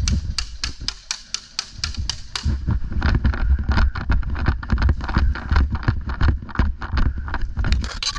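Airsoft guns firing rapid strings of shots, sharp cracking clicks about five a second for the first two and a half seconds, then a longer, denser string from about three seconds in. Wind rumbles on the microphone underneath.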